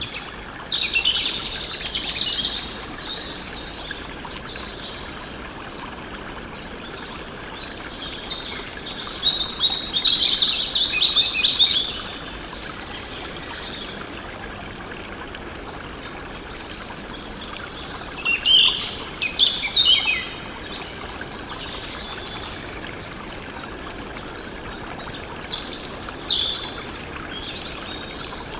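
Songbirds singing in four separate passages of quick chirps and trills, over a steady background rush like running water.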